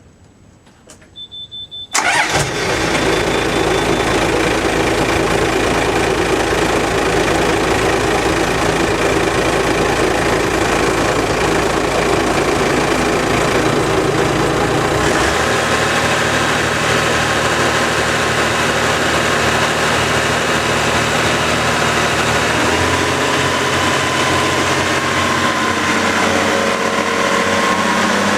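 Yamaha FC-27 boat's SX420KUH engine being started: a brief crank, then it catches about two seconds in and runs steadily. Its note changes about halfway through and again near the end as it settles.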